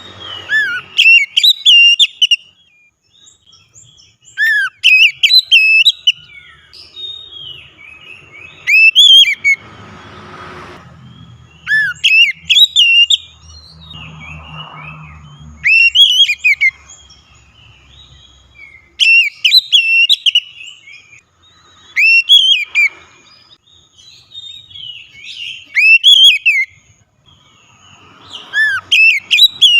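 Oriental magpie-robin (kacer) singing a loud song of sharp whistles and chirps, in repeated phrases about every three to four seconds. A faint low rumble lies under it near the middle.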